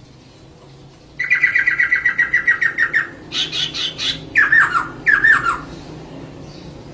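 Female poksay (laughingthrush) calling: after about a second, a fast trill of evenly repeated notes for nearly two seconds, then a short higher chatter and two notes sliding downward. This female call is used as a lure to set male poksay singing.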